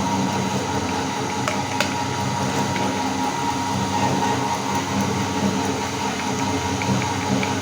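Electric meat grinder motor running steadily while grinding chocolate bars, with a few sharp clicks scattered through it.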